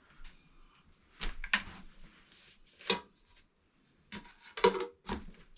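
Half a dozen sharp knocks and clacks, spaced irregularly, as hard objects are handled and set down.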